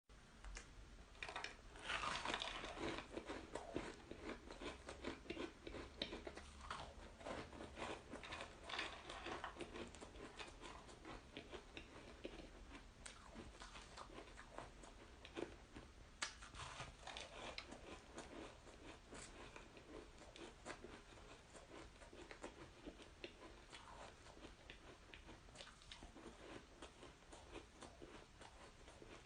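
Close-up crunching and chewing of flavoured shaved ice: a steady run of crisp crackles and crunches, with denser bursts of biting a few times.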